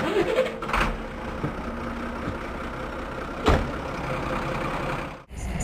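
Truck engine idling steadily, with a single sharp knock about three and a half seconds in; the sound cuts off abruptly near the end.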